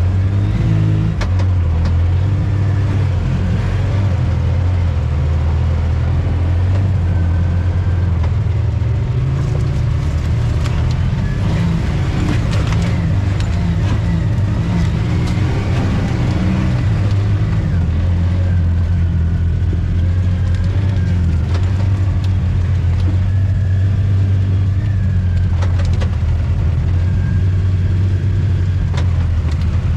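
Off-road vehicle engine running steadily while driving, its note wavering and shifting in the middle with scattered rattles and knocks.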